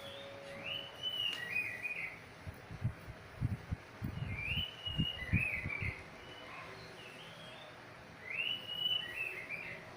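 A bird singing the same short phrase three times, roughly every three and a half seconds: a rising, then falling whistle followed by a lower chattering tail. A few dull low thumps come between about two and a half and five and a half seconds in.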